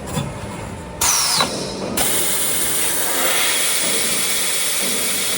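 CNC tube punching and flanging machine running: a falling whine about a second in, then a steady hiss.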